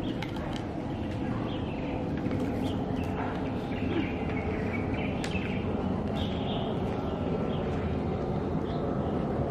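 Steady low background noise, with small birds chirping now and then and a few sharp clicks.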